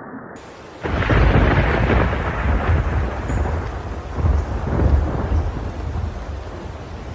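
Thunder from a lightning strike: a sudden loud crack about a second in, then a deep rumble that swells again midway and slowly dies away.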